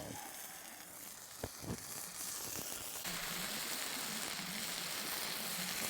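Meat sizzling as it fries over a campfire, with a couple of light knocks early on; the sizzle gets clearly louder about three seconds in and then holds steady.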